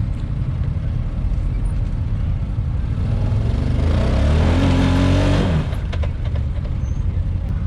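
Side-by-side UTV engine running with a steady low rumble. About three seconds in it revs up, its pitch rising and getting louder for a couple of seconds, then it drops back abruptly, as when a machine is pushed up a climb looking for grip.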